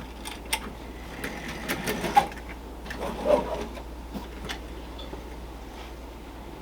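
Tin lithograph toy race car running on its lift-arm drive: a mechanical rattle with scattered clicks and knocks.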